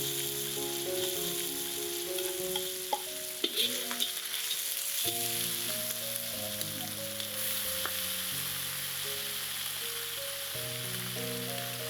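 Food frying in hot oil in a pan, with a steady sizzle and a few clicks of a utensil stirring against the pan, under soft instrumental background music.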